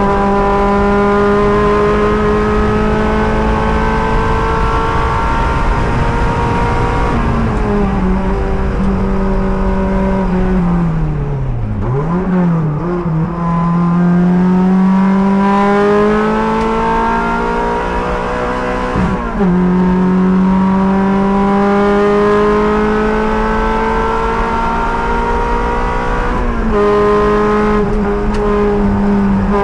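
Race car engine at full throttle on track, its pitch slowly climbing in each gear and dropping at upshifts, around a quarter of the way in, past halfway and near the end. About a third of the way in it winds down hard under braking, with two quick throttle blips on the downshifts, then pulls back up.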